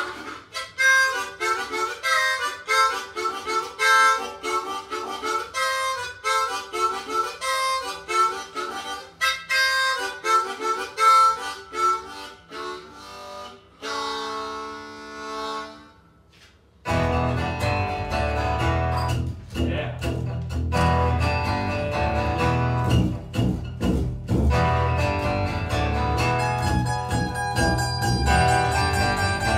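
Harmonica playing a bluesy solo intro, ending on a long held note that fades out. About 17 seconds in, acoustic guitars come in strumming a driving rhythm with a heavy low end.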